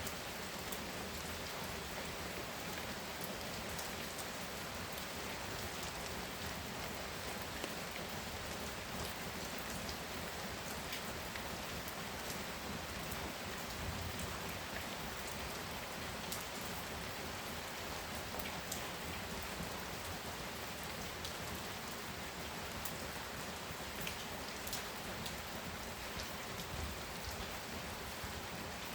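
Heavy rain falling steadily, with many fine drop impacts pattering on surfaces.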